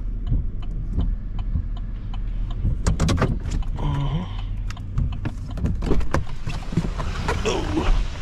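Truck engine running with a steady low rumble inside the cab as it creeps along, with scattered clicks and a couple of short squeaks from the cab.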